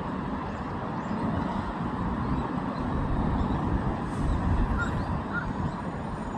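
Eurasian coots giving a few short honking calls, two of them about five seconds in, over a steady low outdoor rumble.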